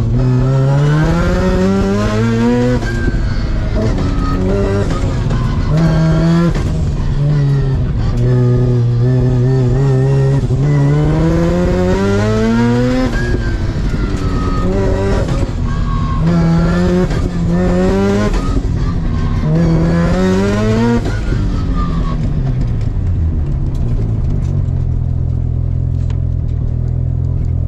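Mazda RX-7 FD's engine heard from inside the cabin while being driven hard: it revs up about eight times in short and long pulls, dropping back between them. Near the end it falls away and settles to a steady low idle.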